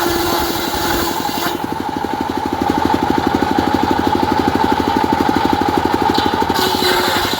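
Diesel engine driving a homemade circular saw, running with a steady rapid throb under the blade's constant hum. A hissing cutting noise stops about a second and a half in and briefly returns near the end.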